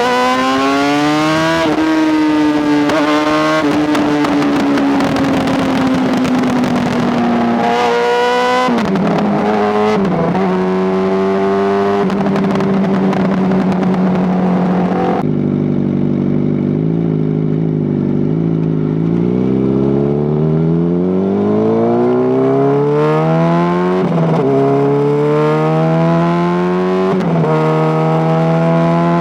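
Honda CBR600RR's inline-four engine and very loud exhaust under way, revving up with pitch drops at each gear change. About halfway through it eases off to a lower, steadier note, then pulls up through the gears again.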